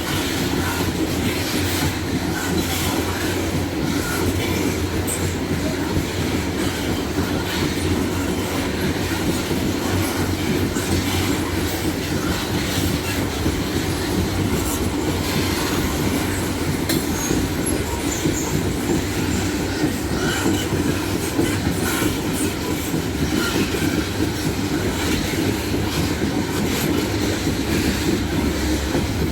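Loaded freight wagons rolling steadily past: a continuous rumble of steel wheels on rail with scattered clicks over the rail joints.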